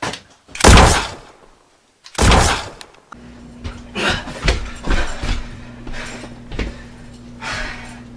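Two loud bangs about a second and a half apart. A steady low hum then starts abruptly, with a run of softer knocks and thuds over it.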